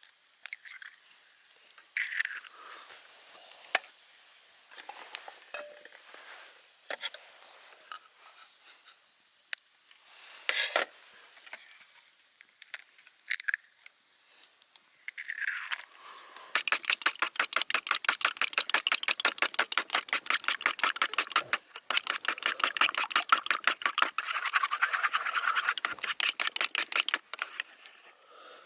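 Scattered light clinks and handling knocks, then a long run of fast, even scraping strokes, several a second, that stops near the end.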